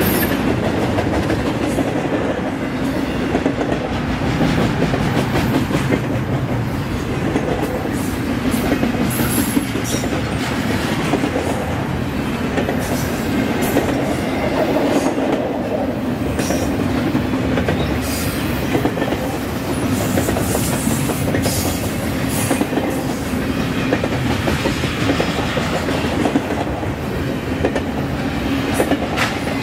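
A train rolling steadily past at close range: a continuous rumble of railcars with wheels clicking over the rail joints.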